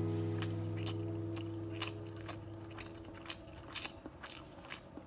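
A person chewing a spoonful of egg fried rice, with irregular soft clicks and crunches. The last chord of a strummed acoustic guitar rings on and fades away over the first few seconds.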